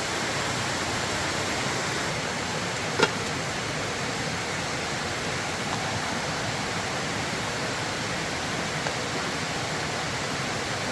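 Steady rushing water noise, even and unbroken, with a single sharp click about three seconds in.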